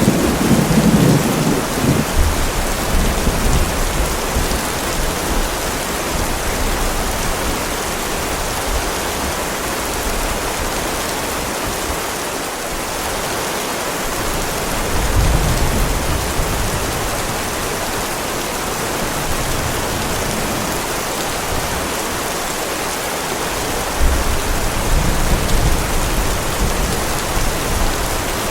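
Heavy rain falling in a steady hiss, with deep rumbles of thunder three times: at the start, about halfway through, and near the end.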